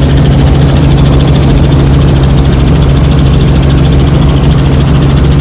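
Helicopter in flight, its engine and rotor running steadily and loudly with a fast, even rotor beat.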